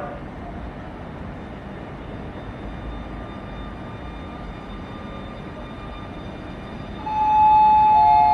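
Steady railway-station platform rumble. About seven seconds in, a loud two-note chime sounds, a higher note and then a lower one overlapping it, like the signal that comes before a station announcement.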